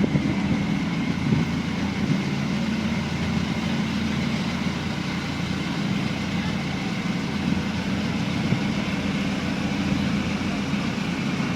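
Large engine running steadily, a low even drone.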